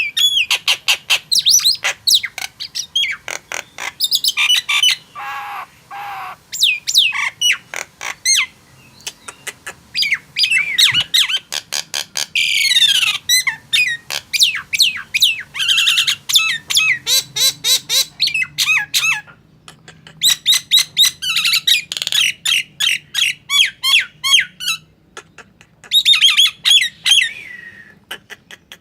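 Nias hill myna in full song: loud, rapid runs of sharp whistles and squawks with some long falling whistles, broken by short pauses.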